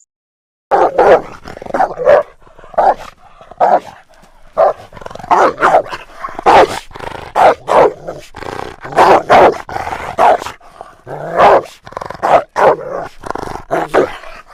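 Dogs fighting, with rapid, loud barking and growling starting just under a second in.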